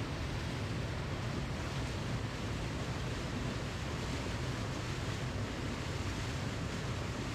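Waterfall: a steady, unbroken rush of falling water, an even hiss over a strong low rumble.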